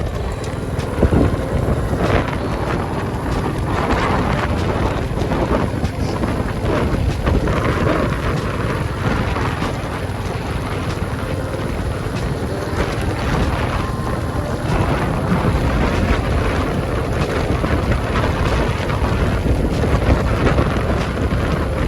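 Wind buffeting the microphone on a moving motorcycle, with the engine running underneath in a steady, rumbling noise.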